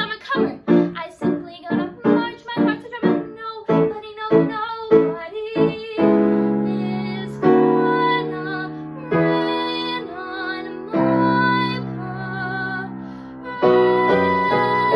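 Solo female voice singing a show tune over piano accompaniment. Quick, punchy phrases give way about six seconds in to long held notes with vibrato, and repeated piano chords take over near the end.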